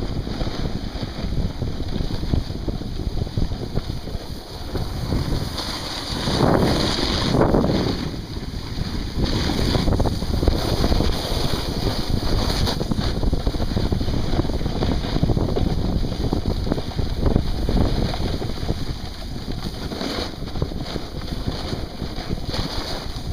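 Wind buffeting the microphone: a steady, loud rumbling rush of noise, swelling briefly about six to eight seconds in.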